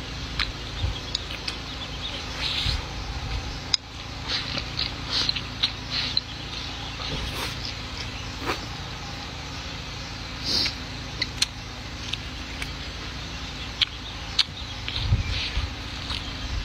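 Close-miked eating: chewing pork and rice, with irregular wet clicks and lip smacks, over a steady low rumble.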